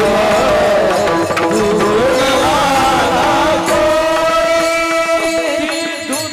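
Marathi kirtan devotional music: a singer holds a long wavering note through the first half over steady sustained drone tones, with hand-drum and cymbal strokes keeping time.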